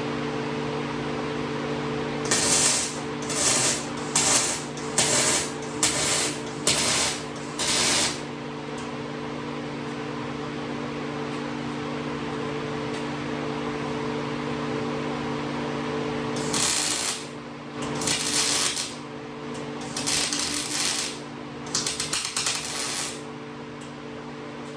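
Miller 251 MIG welder laying short welds on 16-gauge galvanized tubing: a quick run of about eight brief bursts of arc crackle a few seconds in, then four longer bursts in the second half. A steady machine hum runs underneath.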